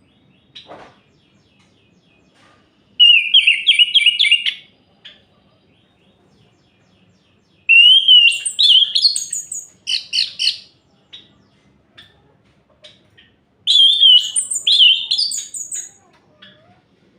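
Orange-headed thrush singing: three bursts of rapid, varied, high warbling phrases a few seconds apart, with faint scattered notes between.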